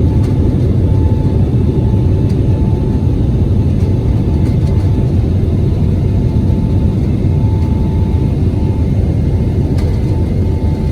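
Jet airliner cabin noise at takeoff power: a steady, loud low rumble of engines and airflow, with a faint steady whine above it.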